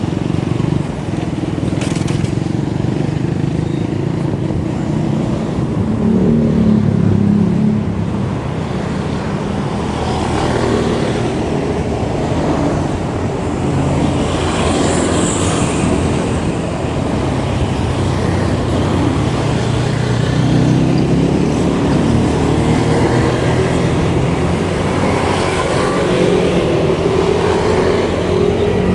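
A motor vehicle engine running under constant road and wind noise, its pitch rising and falling as it speeds up and slows.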